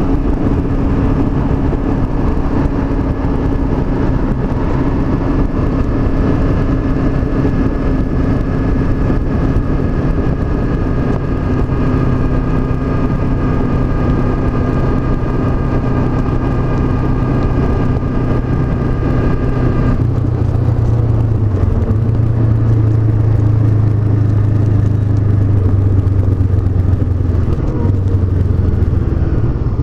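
Honda CB500X's parallel-twin engine running at steady revs while being ridden, under wind and road noise. About two-thirds of the way through, the engine note changes to a lower, steady pitch.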